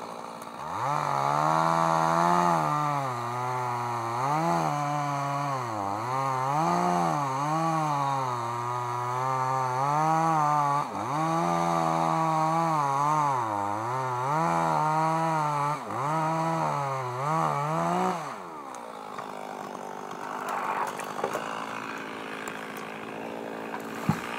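Small engine revving up and down again and again, then its pitch falls and it stops about 18 seconds in, leaving a quieter background with a few clicks.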